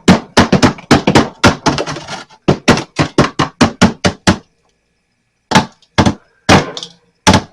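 Sharp knocks in quick succession, about five a second for some four seconds, then a pause and five slower knocks about half a second apart.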